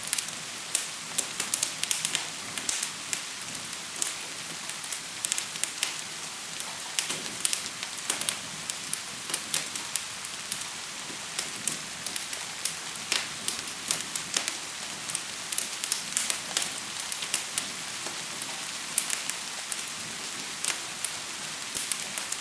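Steady patter of gentle rain blended with a crackling wood fire: an even hiss with frequent irregular sharp pops and crackles.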